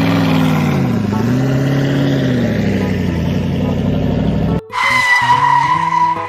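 Car engine revving, its pitch rising and falling twice over a rushing noise, then cutting off suddenly about four and a half seconds in. A steady high squeal follows.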